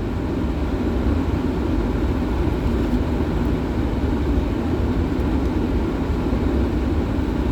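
Steady rumble of road and engine noise inside a car's cabin, loudest in the low end and even throughout.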